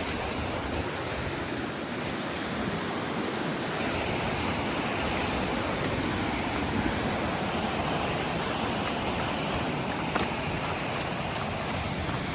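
Steady rushing of a river tumbling over waterfalls.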